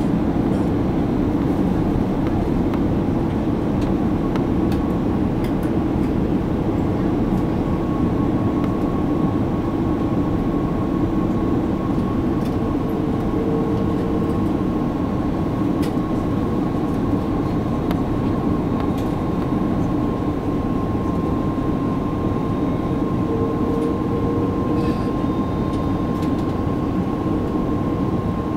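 Steady cabin noise inside an Airbus A330-300 on final approach: an even engine drone and rush of airflow, with a thin, steady high tone running through it.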